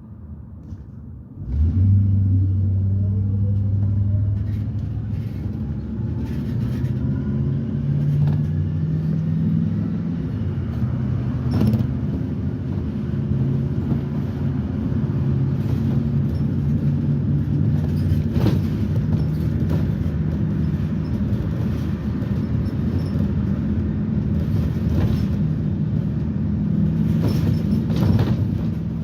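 2010 Blue Bird Vision bus with its propane GM Vortec V8 and Allison transmission, heard from inside the bus. The drive noise comes in suddenly about a second and a half in, a whine rises in pitch over the next several seconds as the bus picks up speed, and then the bus runs on steadily with a few short rattles and knocks.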